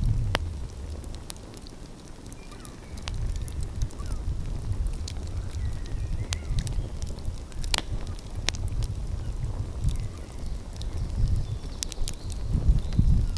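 Wood fire crackling outdoors, with irregular sharp pops, a few of them loud, about eight seconds in and near the end. Underneath runs a low rumble that swells and fades, wind on the microphone or surf.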